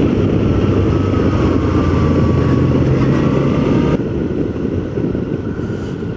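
Suzuki V-Strom 650's V-twin engine running on the move under a steady rush of riding wind, with a faint falling whine. The sound drops a step about four seconds in.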